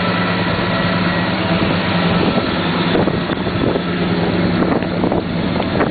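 1968 Ford Thunderbird's rebuilt 429 Thunderjet V8 idling steadily through its new dual exhaust, a low, throaty exhaust note.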